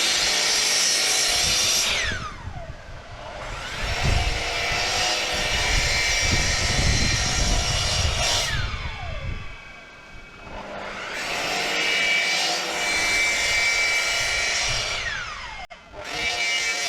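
Electric saw cutting a series of grooves into timber to bring it down to thickness. The motor runs and cuts, and three times its blade winds down with a falling whine before starting up for the next pass.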